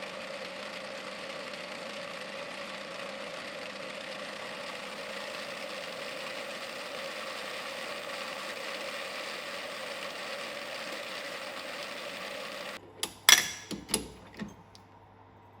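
Mini lathe running steadily as it cuts the side profile of a turbine nozzle ring, with a tool too flexible for the cut. The sound stops suddenly, followed by a few sharp knocks.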